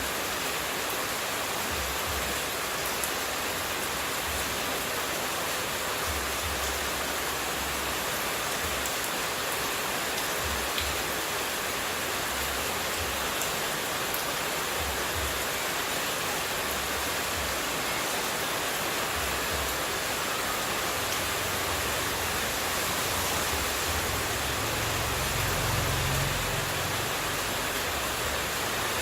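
Running water rushing steadily, an even, unbroken hiss like white noise. A faint low rumble comes and goes underneath and swells briefly near the end.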